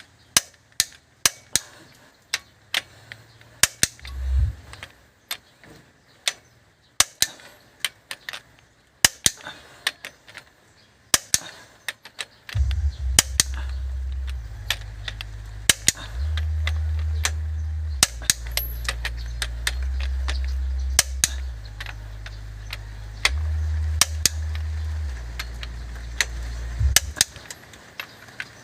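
A run of sharp, irregular clicks and knocks, roughly one or two a second. From about halfway in, a loud deep hum joins them, stepping between a few low pitches and stopping shortly before the end.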